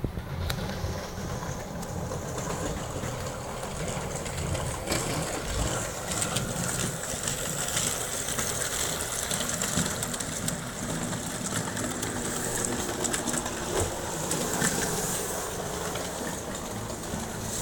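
Small 280 DC motor and gearing of a plastic-kit model electric locomotive whirring steadily as it runs, hauling a train of wooden freight cars, with scattered light clicks. It runs on partly drained AA batteries, and rubber bands on its driving wheels keep the running fairly quiet.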